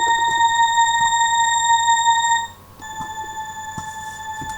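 Roland MD-C1 sound module playing its "Organ 1" preset: a steady, bright organ note held for about two and a half seconds, then cut off. After a short gap a slightly lower note sounds more quietly.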